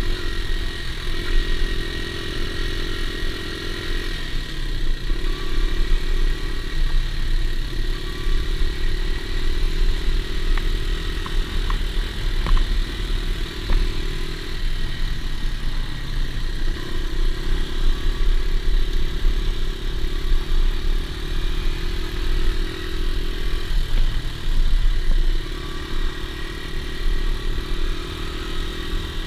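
Dirt bike engine running while being ridden. Its note holds steady for a few seconds at a time, then breaks off and changes, over a constant low rumble.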